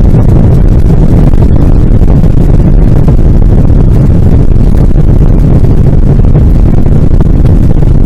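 Steady cabin noise inside a Boeing 777-200ER airliner: a loud, even low rumble with no change in pitch.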